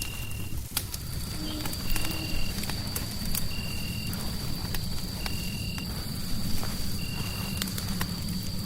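Fireplace crackling: irregular sharp pops and snaps over a steady low rumble of fire and noise. A short high tone repeats about every second and a half, and a thin steady high whine comes in about a second in.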